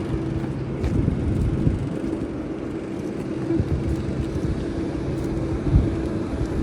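A steady engine drone with a held humming tone, under rumbling noise and a few brief knocks.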